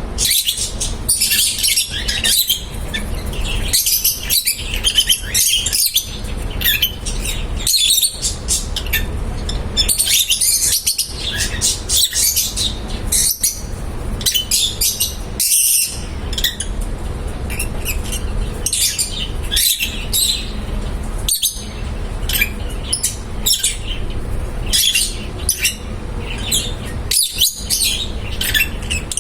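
Lovebirds chirping and tweeting, many quick high chirps overlapping without a break, over a low steady rumble.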